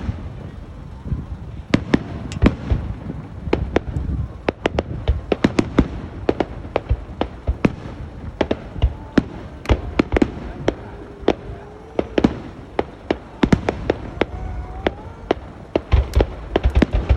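New Year fireworks going off: a dense, irregular stream of sharp cracks and bangs over a low rumble.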